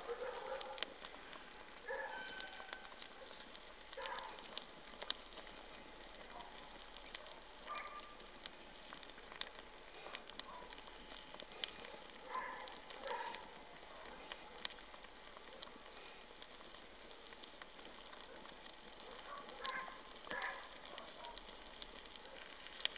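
Bonfire burning, crackling with scattered sharp pops over a steady hiss, with a few faint short sounds in the background now and then.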